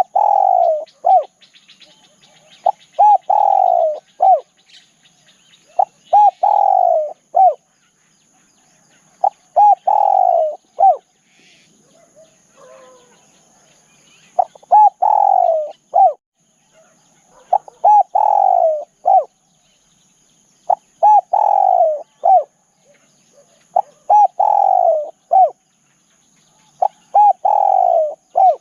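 Spotted dove calling: a repeated cooing phrase of two short coos, a longer falling coo and a final short coo, given about nine times at a steady pace with a few seconds' pause near the middle.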